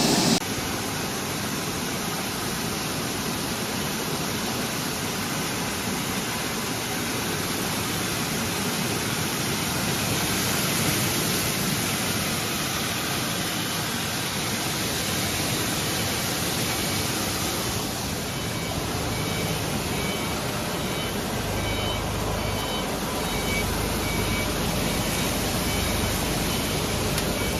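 Industrial bubble washing machine running: a steady rush of circulating water and air bubbling in the wash tank. A low hum comes in about three-quarters of the way through, and faint short beeps repeat near the end.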